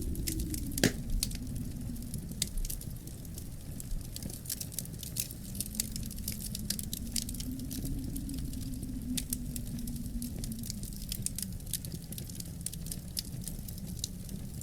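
Wood fire in a fireplace crackling, with many small irregular pops and one louder pop about a second in, over the low steady rumble of the flames.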